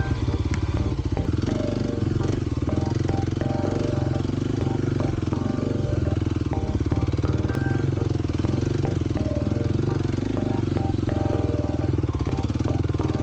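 The single-cylinder four-stroke engine of a 2023 Kawasaki KLX 300 dual-sport motorcycle running steadily while being ridden along.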